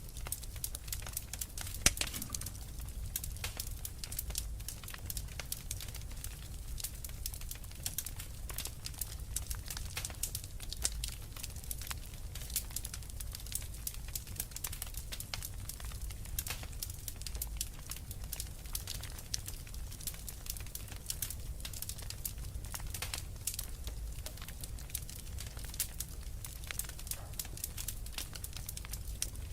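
Wood fire crackling in a fireplace: a dense, irregular patter of small pops and snaps over a low, steady rumble, with one sharper, louder pop about two seconds in.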